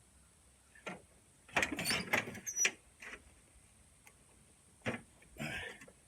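Tools and metal mower-deck parts being handled, clinking and rattling in about five short clatters, the longest about one and a half to two and a half seconds in.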